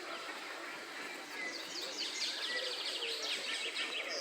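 Songbirds chirping and singing over a steady outdoor background hiss, with a fast trill of rapidly repeated high notes about halfway through.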